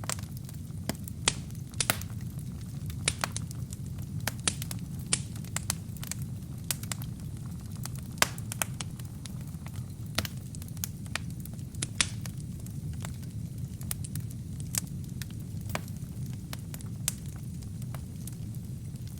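Wood fire burning in a fireplace: a steady low rumble of flames with frequent sharp, irregular crackles and pops from the burning kindling and logs.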